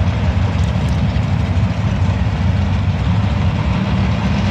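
Engines of two drag-racing cars idling at the starting line: a steady, deep, rough rumble.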